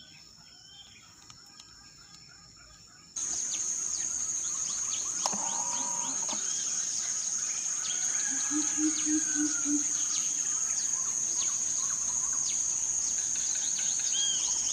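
Outdoor bird and insect chorus: a steady, high-pitched insect drone with many small birds chirping over it. It starts abruptly about three seconds in, after a quieter stretch of faint chirps.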